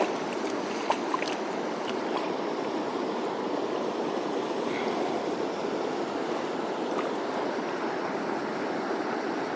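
Mountain stream water rushing steadily, with a couple of light clicks about a second in.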